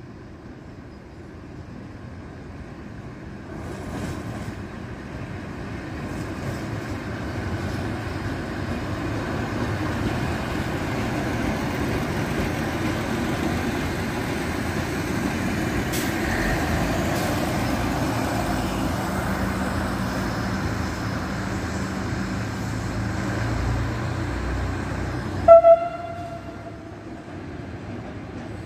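Regional diesel railcar passing on the track beside the platform: a running engine and rumbling wheels that build to a peak as it goes by. Near the end comes one short toot of its horn, the loudest sound, after which the rumble fades as it moves away.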